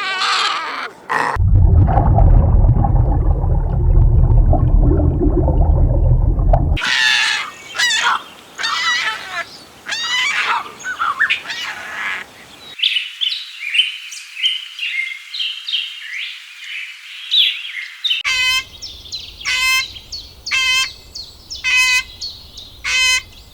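A loud, low-pitched sound for about five seconds, then birds chirping and twittering. Near the end comes a call repeated about once a second.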